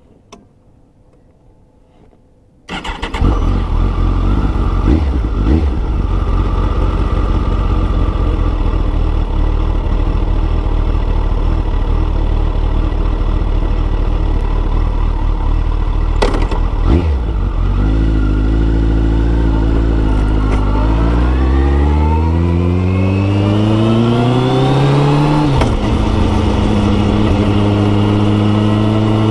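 Kawasaki ZX-14R inline-four with a Yoshimura exhaust starting up about three seconds in and idling steadily. Later it pulls away, the engine note rising for about five seconds, dropping sharply at an upshift, then running steady.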